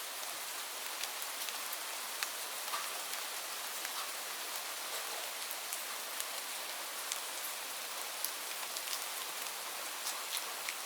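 Steady rainfall, a continuous hiss with many individual drops ticking sharply on a hard surface.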